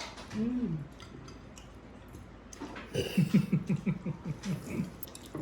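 A person laughing: a quick run of about ten short falling 'ha' sounds starting about three seconds in, after a brief vocal sound near the start.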